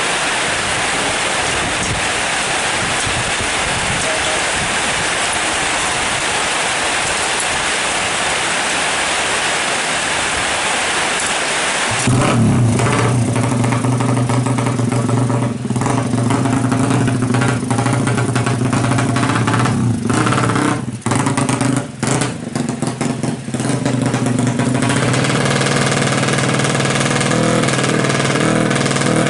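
Steady hiss of heavy rain. About twelve seconds in, a Suzuki Satria FU motorcycle's single-cylinder engine, bored out to 200cc, comes in suddenly and runs loudly, with a few short drops and throttle blips.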